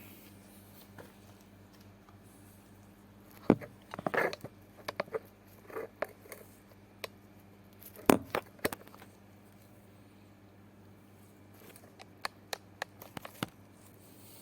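Scattered clicks, taps and light knocks of small parts and tools being handled during work on a mobility scooter's wiring. There is a sharper knock about three and a half seconds in, a cluster after it, a loud pair a little past halfway and a quick run of small ticks near the end, all over a faint steady low hum.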